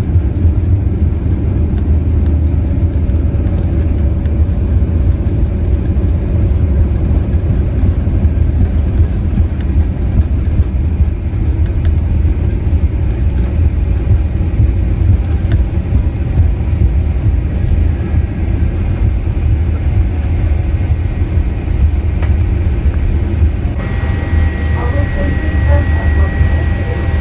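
Steady low rumble of a Boeing 787-8 heard from inside the cabin, from its engines and the airflow. Near the end a thin, steady high tone and a few faint clicks join in.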